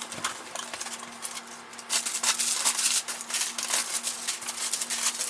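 Cardboard shipping box being opened by hand: crackling, rustling and tearing of packing tape and cardboard, busiest from about two seconds in.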